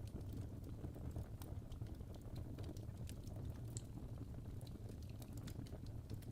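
Fire crackling: irregular small pops and snaps over a steady low rumble of the flames.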